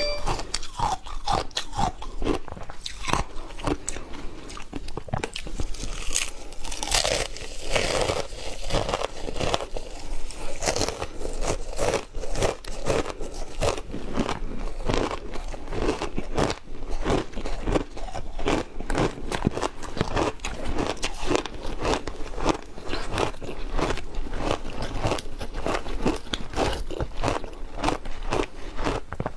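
Frozen matcha ice being bitten and chewed: dense, irregular crunching, several crunches a second.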